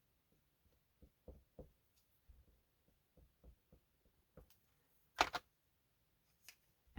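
Faint, scattered soft taps of an oil pastel working over paper, then a single sharp knock about five seconds in.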